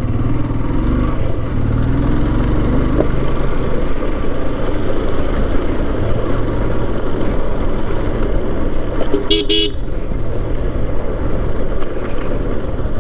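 Motorcycle riding along a road, its engine and road noise running steadily, with a short horn toot about nine seconds in.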